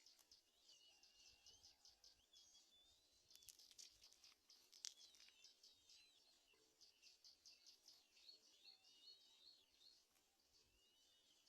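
Faint, high-pitched bird chirping: a quick run of short chirps, about five a second, with thin wavering whistled notes, and a single sharp tick about five seconds in.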